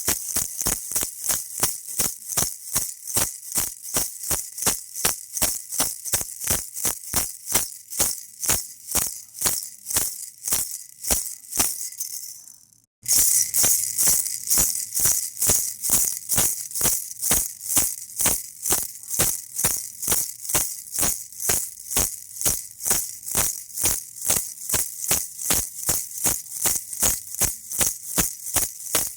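Baby rattle shaken in a steady rhythm, about three shakes a second, each a bright rustling rattle. The shaking fades out about twelve seconds in, stops for a moment, then starts again louder.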